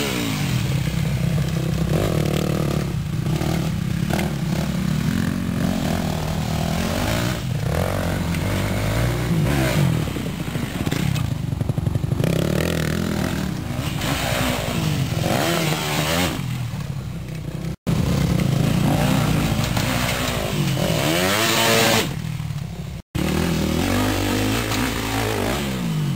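Motocross bikes' engines revving up and down as they ride, in a series of edited clips, with the sound cutting out abruptly twice in the later part.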